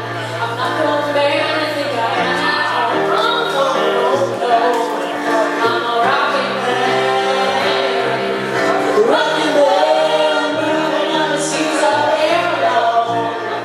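Live music: a pop song played with instruments and sung vocals.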